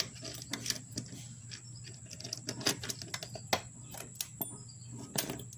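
Light irregular metal clicks and taps as a retaining clip is worked into the groove on a riding lawnmower's wheel axle, over a steady low hum.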